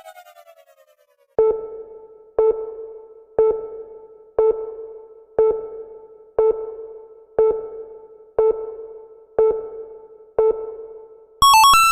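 Synthesized ping sound effect: a low electronic ping repeated about once a second, ten times, each struck sharply and fading away. It comes after the fading tail of a falling tone, and a quick run of higher beeps starts just before the end.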